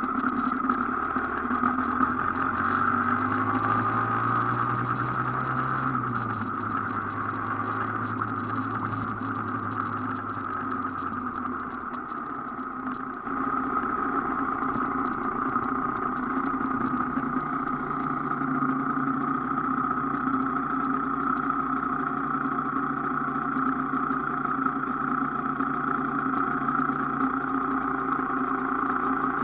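Aprilia AF1 motorcycle's two-stroke single-cylinder engine running under way. The engine note holds fairly steady, with a short drop in level about twelve seconds in before it picks up again.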